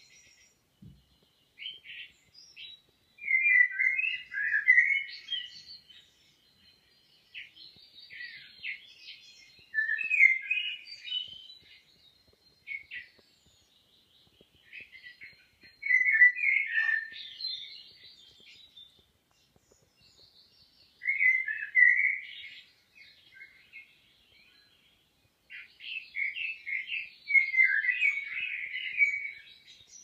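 A bird singing: short chirping phrases repeated every few seconds, with a longer run near the end.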